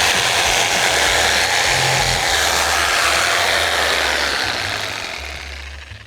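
A handheld electric tool running steadily with a rushing, airy whir and a low motor hum, then winding down and fading out near the end.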